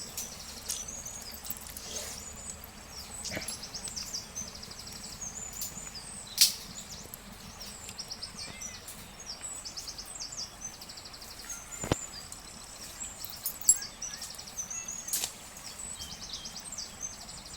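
Small birds chirping and trilling over and over, with a few scattered sharp clicks.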